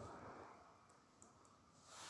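Near silence: faint room tone, with a soft breath-like hiss in the first half-second and a few very faint clicks around the middle.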